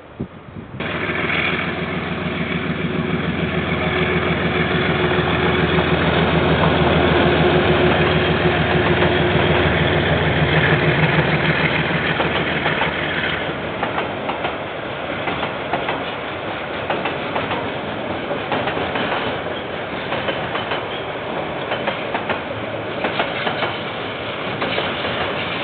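KiwiRail freight train passing: a diesel locomotive's engine drones for the first half, then the wagons rattle and clack over the rail joints. The sound cuts in suddenly just under a second in.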